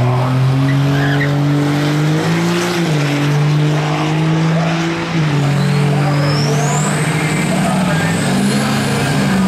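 Turbo-diesel truck engine held at steady high revs at a drag strip starting line, its pitch stepping up briefly and then back down. A high whistle rises and falls over it in the second half.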